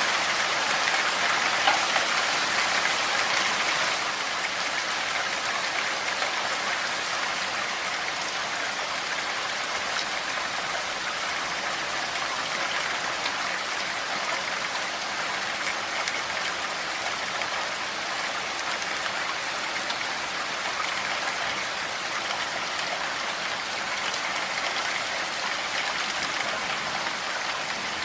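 Steady rain falling, an even hiss of many drops with fine patters, a little louder for the first four seconds.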